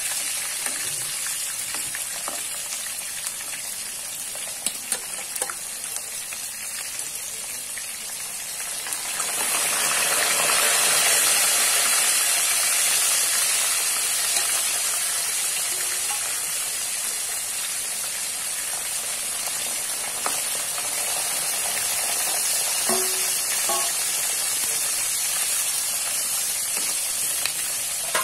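Sliced long eggplant frying in hot oil in a wok: a steady sizzle that grows louder about nine seconds in, with a few scrapes and taps of a spatula stirring the slices.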